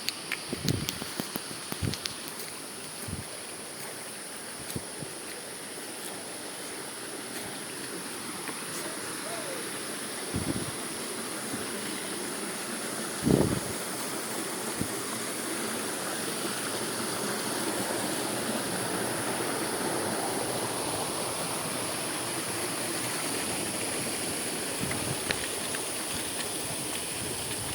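Steady rush of flowing water at a waterfall, with a few scattered knocks, the loudest about thirteen seconds in.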